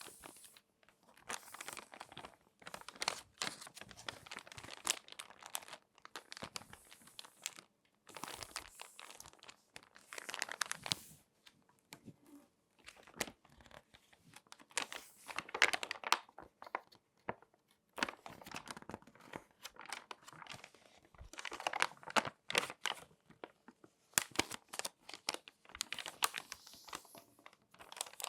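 Glossy magazine pages being folded and handled close up, crinkling and crackling in irregular bursts of a second or two with short pauses between.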